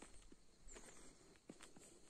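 Faint footsteps of someone walking, a few soft irregular steps, with faint high chirps in the background.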